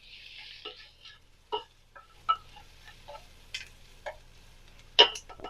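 Chopped onions frying in a pan with a faint sizzle, while a utensil stirs them and knocks against the pan now and then. The loudest knock comes near the end.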